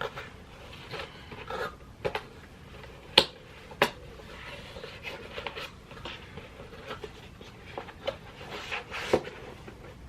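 Cardboard packaging and kit pieces being handled and rubbed, with scraping rustles and a string of short clicks, the two sharpest a little over three seconds in and about half a second later.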